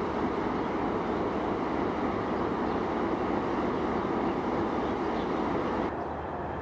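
ALCO C-424 diesel locomotive running steadily at close range. The higher part of the sound drops away abruptly about six seconds in.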